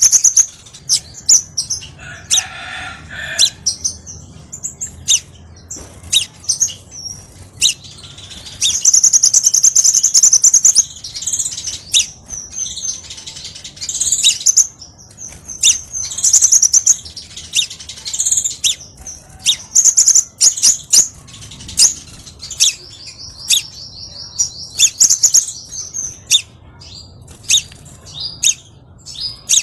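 Crimson sunbird singing: a rapid string of high, sharp chirps and fast trills, with longer unbroken trills about nine seconds in and again around twenty-three seconds in.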